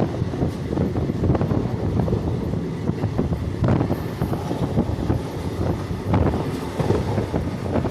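ICF passenger coach running along the track, heard from on board: a steady low rumble of wheels on rails with irregular clanks and knocks, and wind buffeting the microphone.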